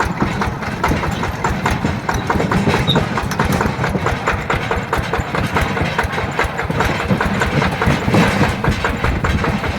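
Yanmar TF120 DI single-cylinder diesel engine of a small tractor running steadily, with an even, rapid beat of firing knocks.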